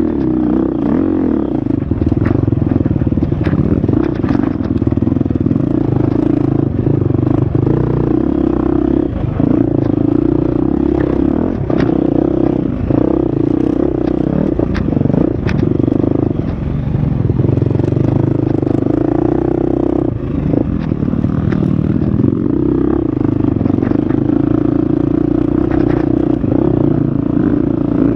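Husqvarna FX 350's four-stroke single-cylinder dirt bike engine running hard along a trail, its pitch shifting with throttle and gear changes, with frequent sharp clatter from the bike over rough ground.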